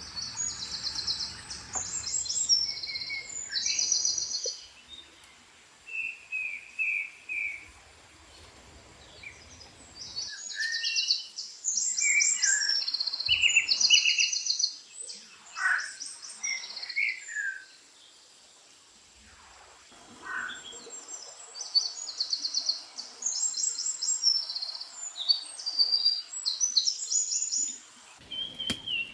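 Birds singing: high, rapid trilled phrases with lower single chirps between them. The song comes in three bouts, with short quiet pauses between.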